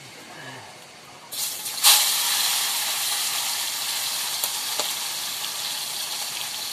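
Hot oil in a wok starts sizzling sharply as food is dropped in about a second and a half in, with its loudest burst a moment later, then keeps up a steady frying sizzle.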